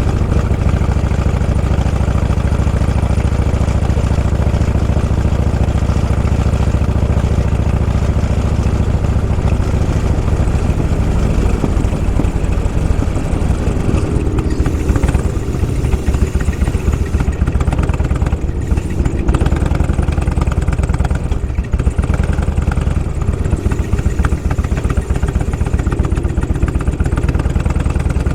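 Motorcycle engine running at low speed, a steady low rumble with small changes in pitch.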